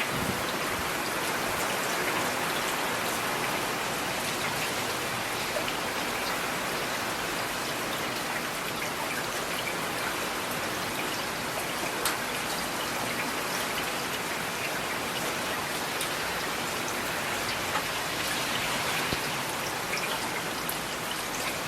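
Steady rain falling, an even hiss with a few louder individual drop taps scattered through it.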